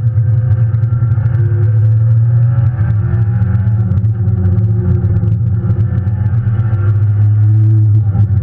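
Ford Shelby GT350R's flat-plane-crank V8 heard from inside the cabin while lapping a race track under load, a steady loud engine drone with its pitch drifting slowly upward in places, over road and tyre noise.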